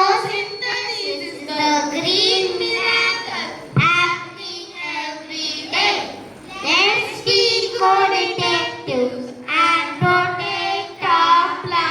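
Children singing a song in short phrases with brief breaks between them.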